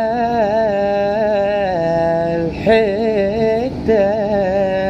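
A man singing solo in Iraqi Arabic style, drawing out a long ornamented melisma on held vowels with vibrato. It comes in three breaths, with short breaks about two and a half and about four seconds in.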